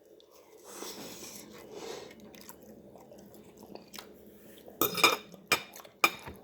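Chewing a bite of chicken pot pie. Then a fork clicks and scrapes against the dish several times, sharp and loud, as the pie is broken open.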